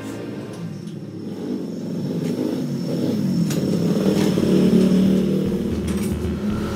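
Honda Tiger motorcycle engine running, revved up and back down again.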